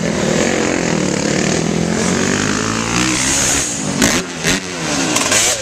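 KTM dirt bike engines running and revving, their pitch falling and rising. A few sharp clicks come in the last couple of seconds.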